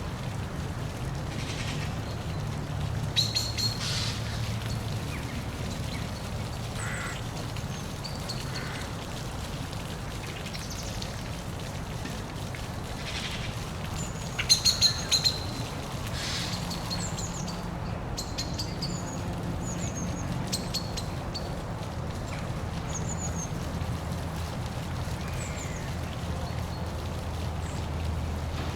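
Steady rush of a park waterfall, with birds chirping and calling over it and a couple of short bursts of louder calls, about three seconds in and again about fifteen seconds in.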